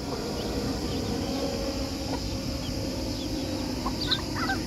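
Steady low drone of an airplane passing overhead. Near the end, farmyard fowl give a few short calls.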